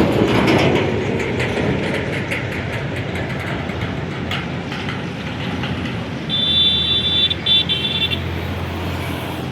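Train wheels clattering over rail joints, fading over the first few seconds into a steady rumble. A high-pitched horn then sounds twice in short blasts, the first about a second long.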